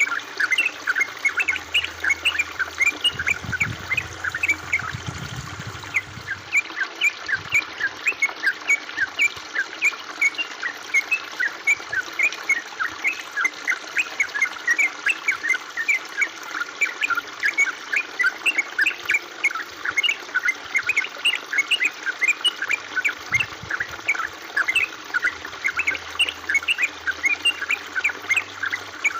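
Water trickling and babbling over stones, a quick, unbroken patter of bright little plinks over a steady hiss.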